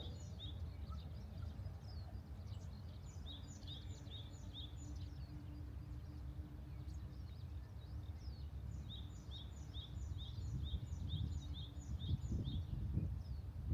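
A small songbird singing a phrase of quick, high, repeated notes, about four a second, three times over, above a low steady outdoor rumble. A few low knocks come near the end.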